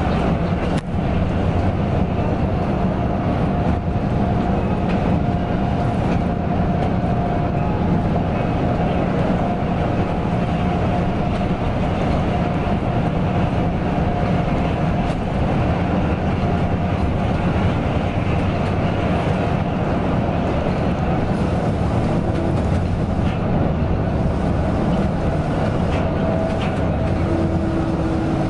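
Mercedes-Benz OC 500 RF 2542 coach running at a steady pace: a continuous diesel engine drone mixed with road noise, with a faint steady whine above it.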